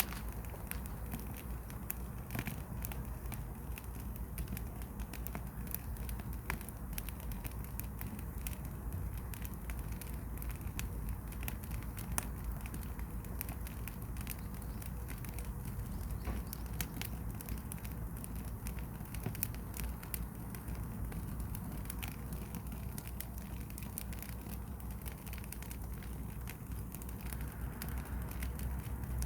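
Firewood fire burning, crackling with frequent irregular pops and snaps over a steady low rumble.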